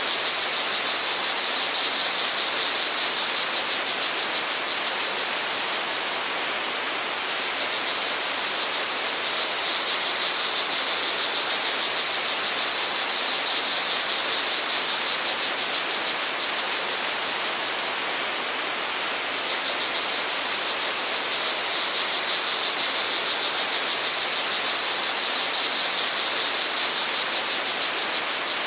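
Steady rush of flowing water from a forest waterfall or stream, with crickets trilling high and fast in stretches that fade in and out.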